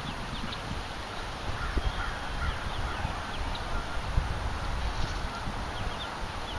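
Birds calling with short, high chirps, scattered irregularly, over a low rumble of wind on the microphone.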